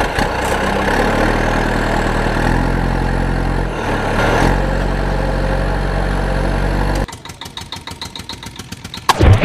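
A vehicle engine running steadily, its pitch shifting a few times. At about seven seconds it changes to a quieter, even chugging of about four to five beats a second, and a loud thump comes near the end.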